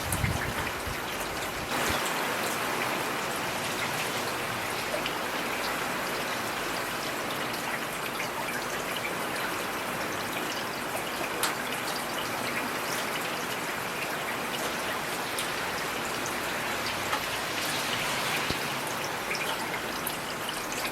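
Heavy rain falling steadily: a dense hiss with countless individual drops ticking and pattering on a surface. A brief low thud comes right at the start.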